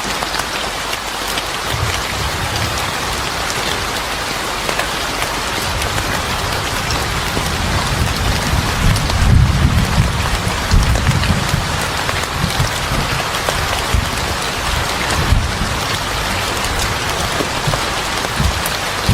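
Steady rain pattering on a surface, with a low rumble of thunder that builds about six seconds in, is loudest around ten seconds in, and fades out a few seconds later.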